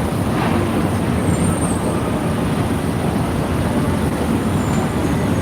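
Steady city street traffic noise: the even rumble of passing road vehicles.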